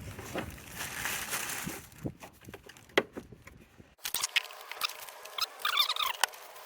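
Plastic engine air filter housing of a Subaru Forester being worked closed by hand: rubbing and scraping of the cover, a few sharp clicks, and short plastic squeaks near the end as it is pressed into a tight fit.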